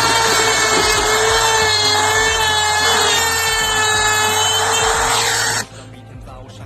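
Power tool running under load: a steady high whine over a harsh cutting or grinding noise. It cuts off abruptly about five and a half seconds in.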